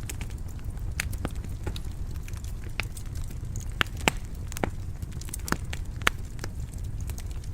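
Wood fire burning in a fireplace: a steady low rumble with irregular sharp crackles and pops, a few of them louder snaps.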